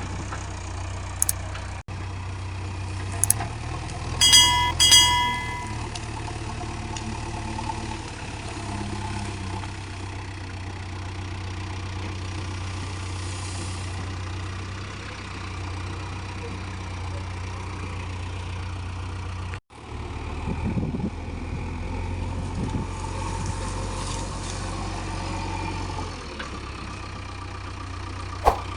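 JCB 3DX backhoe loader's diesel engine running steadily at low revs, with a few sharp clicks and two brief high tones about four seconds in. The sound cuts out abruptly twice.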